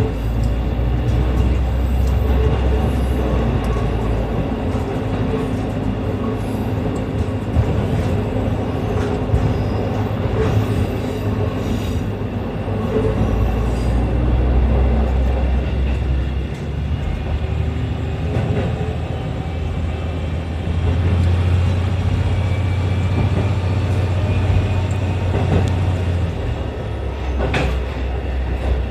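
Diesel railcar running along a rural single-track line, heard from inside the rear of the car: a low engine drone with steady wheel and rail noise. The engine note steps up about two-thirds of the way through and eases off near the end, where a couple of sharp clicks from the wheels on the track are heard.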